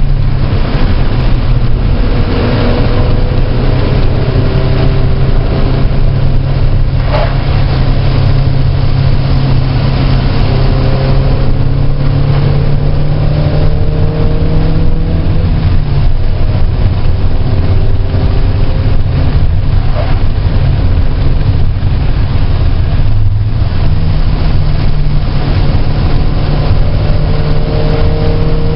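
Car engine at track pace, loud and continuous, its pitch climbing slowly under acceleration, with brief lifts or gear changes about halfway through and again near three quarters of the way through.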